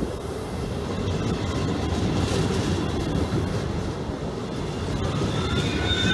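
Train rolling past on the rails, a steady low rumble of wheels and wagons. Near the end a high, slightly rising squeal from the wheels begins.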